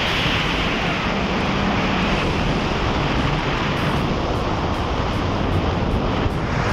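Steady, loud wind rushing over the camera microphone during a skydive.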